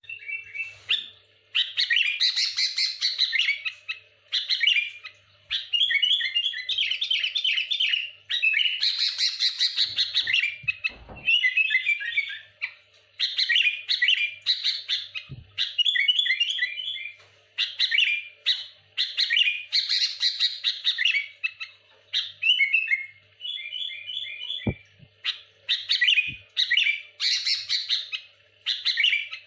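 Sooty-headed bulbul singing busily: rapid, tightly packed chirping phrases of a second or two each, repeated with short pauses. A few dull low thumps come in between.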